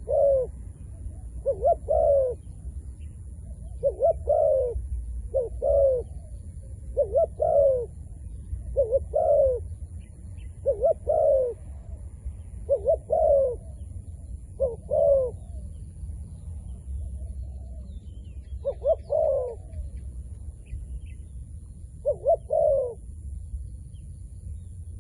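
Zebra dove cooing: short bursts of two or three quick staccato notes, repeated every second or two, with a pause of a few seconds past the middle. A steady low rumble runs beneath.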